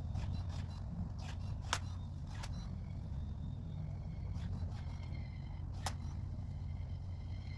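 Pruning shears cutting small branches of a fallen conifer limb: a few sharp snaps, the loudest about a second and a half in and another near six seconds, over a steady low rumble.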